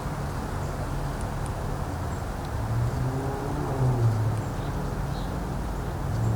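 Wind rumbling on the microphone, with a low droning hum that swells about three to four seconds in and a few faint, high bird chirps.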